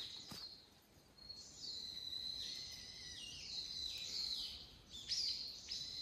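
Birds calling in a forest: a run of high chirps and short falling notes starting about a second in, over a thin, steady high tone.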